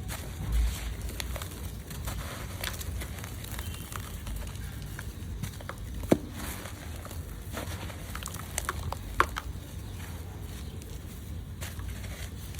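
Hands crumbling lumps of gritty red dirt: scattered small crackles and gritty crunches, with a dull bump near the start and a sharp snap about six seconds in.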